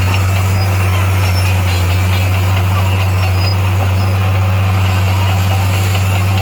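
D58A bulldozer's diesel engine running with a steady, loud low drone.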